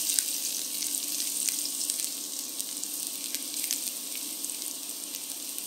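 Chopped garlic and ginger slices sizzling in hot oil in a wok, frying until fragrant: a steady hiss with a few scattered small pops.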